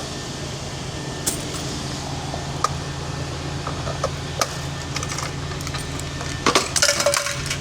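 Coins clinking a few times as they are handled, with a quick cluster of clinks near the end, over a steady low machine hum.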